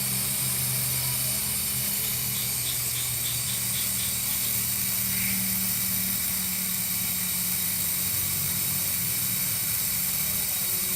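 Steady hiss of compressed air over a low, even hum, as the refrigerator's evaporator line is fitted with a valve for a pressure leak test.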